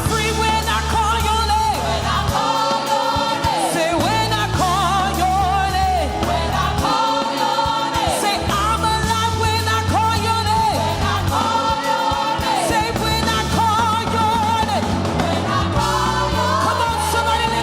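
Live gospel praise singing: a lead vocal with backing singers over a band with steady bass, held sung notes bending between phrases.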